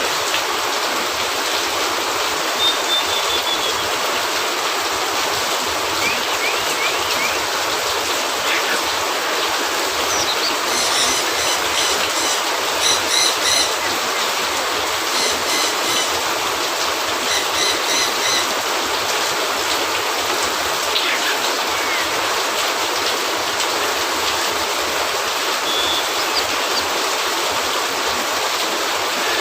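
Steady rain, a dense even hiss, with a few faint short chirps and a run of quick ticks near the middle.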